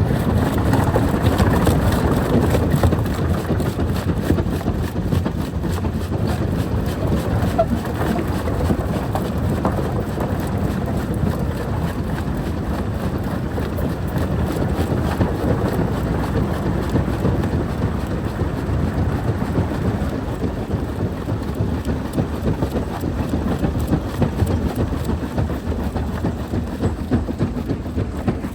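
Jaw crusher running and crushing rock: a steady heavy rumble with a continual scatter of small knocks and crunches.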